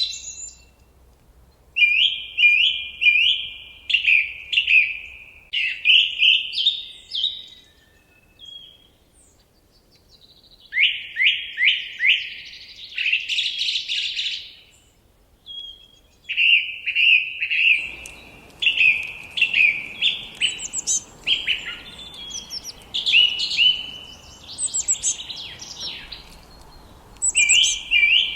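A songbird singing in short phrases of quick, repeated descending notes, with brief pauses between phrases. About two-thirds of the way in, a steady background hiss comes in beneath the song.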